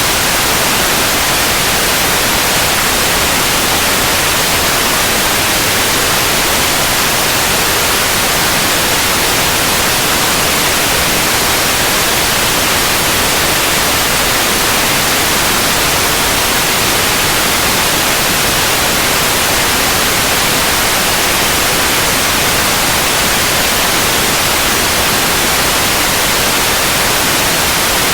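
Electronically generated white noise: a steady, even hiss spread across the whole range, brightest in the highs, with no change or break.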